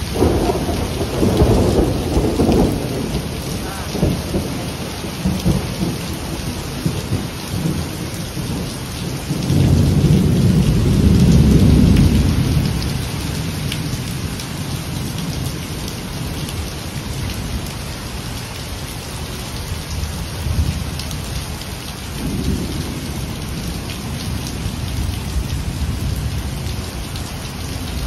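Heavy rain pouring down in a steady hiss, splashing on pavement and foliage. Deep low rumbles swell in the first few seconds and again, loudest, around ten to twelve seconds in, with a weaker one near twenty-two seconds.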